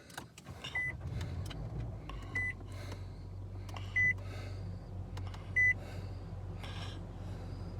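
Car's dashboard warning chime beeping four times, evenly about every second and a half, over a steady low hum from the car.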